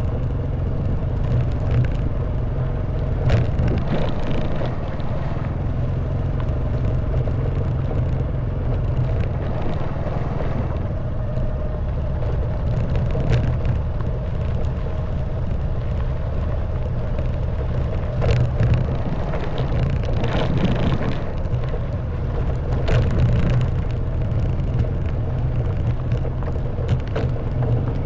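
Honda Wave 110cc single-cylinder four-stroke motorbike engine running steadily under way, with heavy road and wind rumble. A few sharp knocks and rattles come through as the bike jolts over the stony track.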